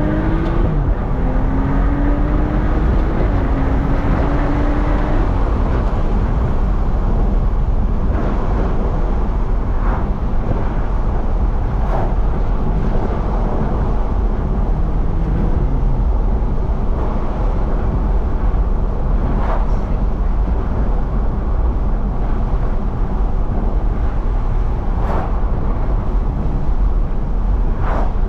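Stage 2 BMW F30 335i with a turbocharged N55 inline-six and catless downpipe, accelerating through an upshift in the first few seconds with the engine note climbing. It then settles into a steady cruise under a heavy, even road rumble, with a few brief clicks scattered through.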